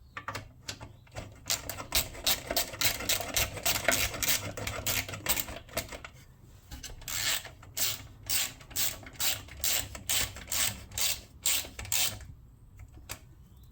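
Ratchet wrench clicking rapidly as bolts on the small engine are wound in, in two runs of quick even clicks with a short pause between them.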